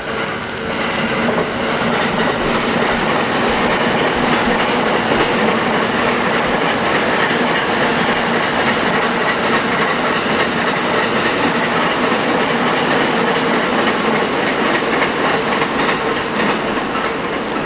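A train running on the rails, a steady noise with wheels clacking over rail joints; it swells up about a second in and eases a little near the end.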